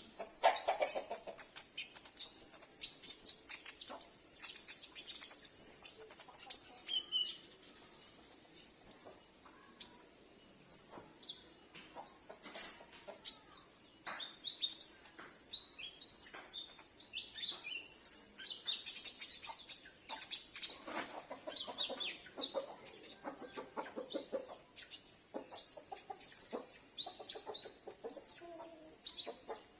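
Olive-backed sunbird calling: many short, high, quick chirps and trills in runs, with brief pauses between. Lower clucking calls join in near the start and again from about twenty seconds in.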